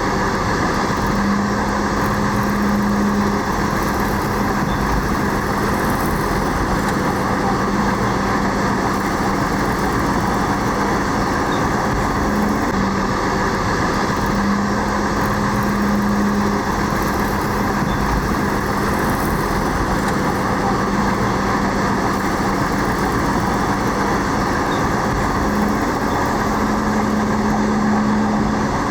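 Diesel engine of heavy earthmoving machinery running steadily, with a constant low drone under a dense mechanical noise.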